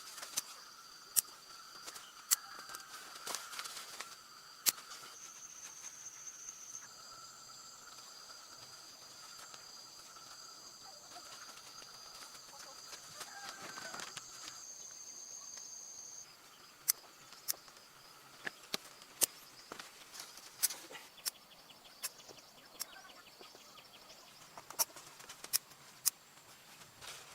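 Steady insect chirring in several high, even tones, with a scatter of sharp clicks and knocks throughout.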